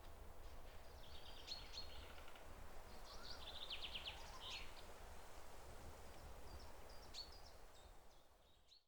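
Faint bird calls: scattered high chirps and a quick trill, over a steady low rumble.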